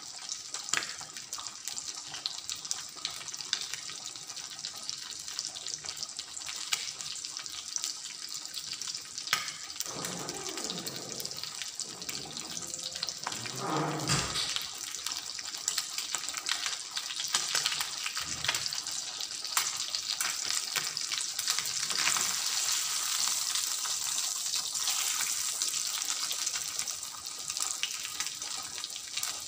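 Chicken breast frying in a creamy sauce in an aluminium pan: a steady sizzle with crackling, a little louder in the second half.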